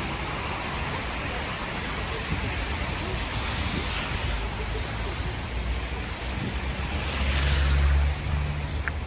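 Outdoor city street ambience in a snowstorm: a steady rush of wind noise with traffic, and a vehicle rumbling past louder about seven to eight seconds in.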